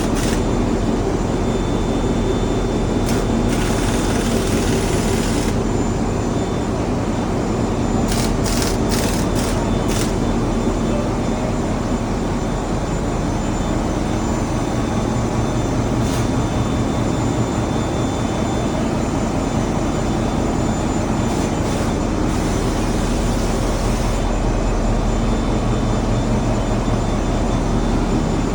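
Ship's engine-room machinery running with a loud, steady drone and humming tones. A few short bursts of high hissing come and go over it.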